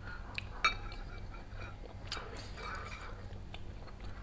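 Close-up chewing of food, with metal spoon and fork clinking against ceramic soup bowls. The sharpest clink comes about two-thirds of a second in, and more clinks follow around two seconds in.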